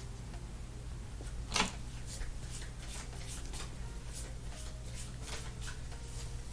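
Trading cards being handled on a table: a louder sliding flick about one and a half seconds in, then a run of small clicks and flicks, over a steady low hum.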